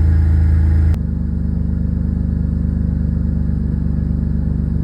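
1994 Plymouth Voyager's 3.0-litre V6 idling steadily just after a cold start in sub-zero cold, with an even pulse. About a second in the sound drops abruptly and runs on a little quieter.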